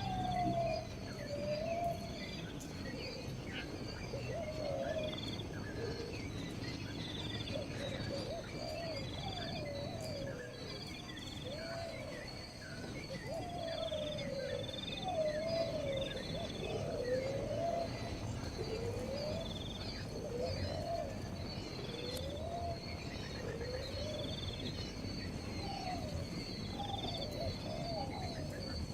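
Birds calling in a natural setting: short low calls that slide up and down, repeating every second or two, over high chirps and a steady high chirring.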